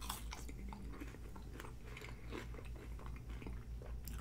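Close-miked mouth chewing McDonald's french fries: many small, irregular clicks and light crunches.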